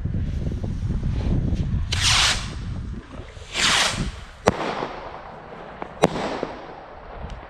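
Consumer fireworks going off: two hissing whooshes, then two sharp bangs about a second and a half apart, each followed by a ringing echo.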